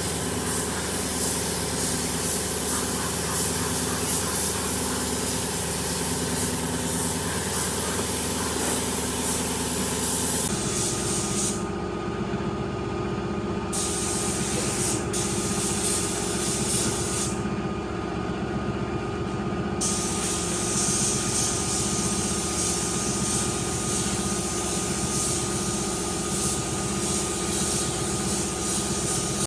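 A machine running steadily, its hum and hiss changing abruptly about ten seconds in.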